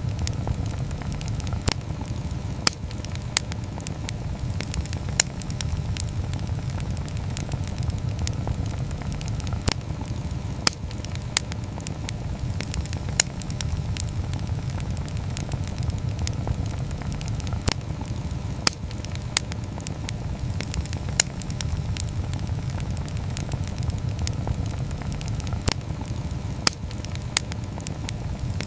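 Wood campfire burning, with sharp crackles and pops at irregular intervals, about one or two a second, over a steady low rumble.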